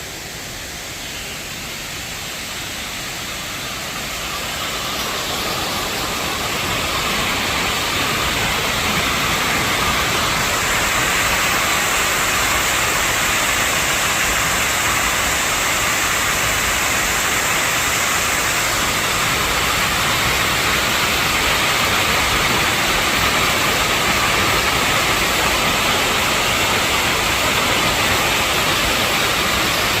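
Water rushing steadily in a mountain valley stream. It grows louder over the first several seconds, then holds steady.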